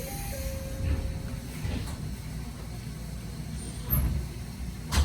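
Local train's sliding passenger doors closing at a station stop: a steady chime tone for about the first second and a half, then two thuds about four and five seconds in as the doors shut, the second the loudest, over the low rumble of the stationary train.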